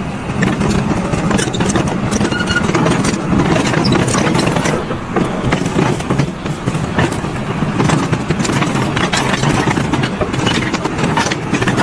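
A loud engine running, with constant rattling and knocking over its steady low drone.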